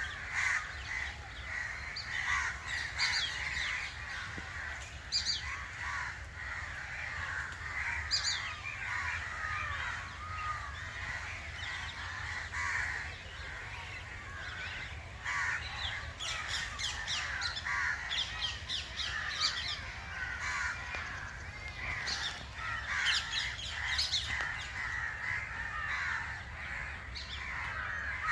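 Crows cawing repeatedly among a chorus of smaller birds chirping and calling.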